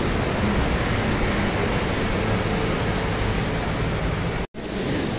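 Steady rush of heavy rain mixed with passing traffic, which cuts out completely for a moment about four and a half seconds in.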